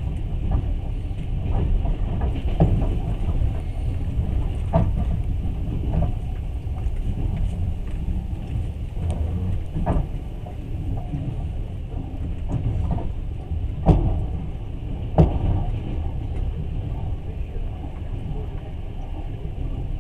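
Passenger train running along the track, heard from inside the carriage: a steady low rumble with scattered sharp knocks from the wheels and coach. The loudest two knocks come about a second apart, roughly two-thirds of the way through.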